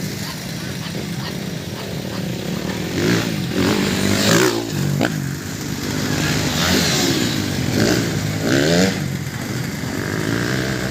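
Motocross motorcycle engines revving, their pitch rising and falling again and again from about three seconds in, over a steady engine drone.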